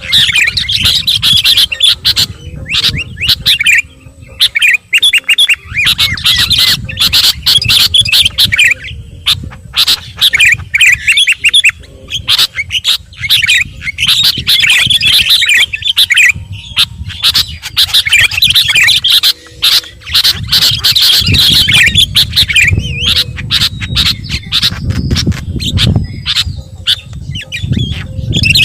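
Baby birds begging to be fed: shrill, rapid squawking chatter that comes in repeated bursts of a few seconds, with sharp clicks and a low rumble underneath.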